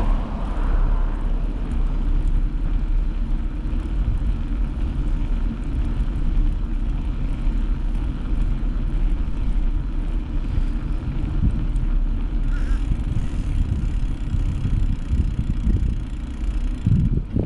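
Wind buffeting the microphone while riding a bike: a steady low rumble.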